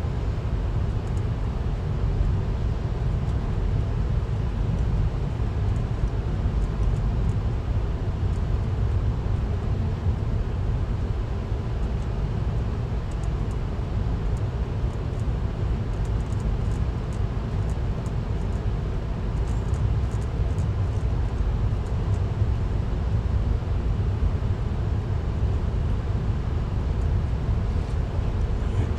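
Steady low rumble of a moving VIA Rail passenger train, heard from on board, with a few faint ticks partway through.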